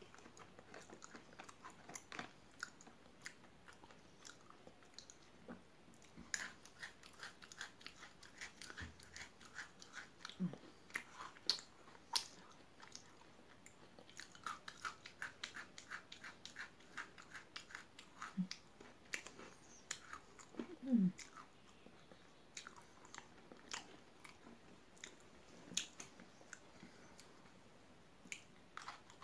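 Close-up crunching and chewing of Pocky chocolate- and matcha-coated biscuit sticks, with sharp crackly bites throughout. A few brief falling low hums come from the eater, the loudest about 21 seconds in.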